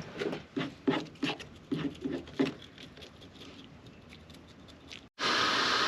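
A run of light, quick taps, about three a second, for the first two and a half seconds, then a lull. Near the end the steady hiss of oil frying comes in abruptly.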